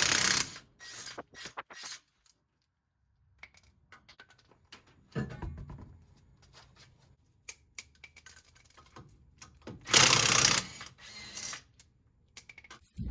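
Hand-tool work on a car's suspension: scattered metal clicks and clinks of wrenches and a ratchet, with two loud bursts of a power tool about a second long, one at the start and one about ten seconds in.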